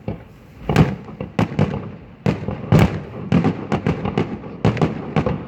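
Fireworks display: aerial shells bursting in an irregular run of about a dozen sharp bangs, several coming in quick succession in the second half.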